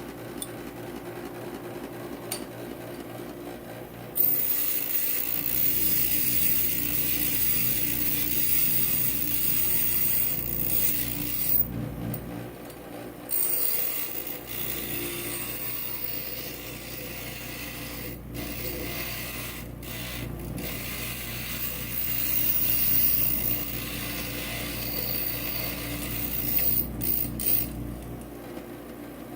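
Inland stained glass grinder running with a steady hum. From about four seconds in, a glass edge is pressed against the spinning diamond bit and grinds with a loud gritty hiss, which breaks off briefly several times as the piece is lifted away.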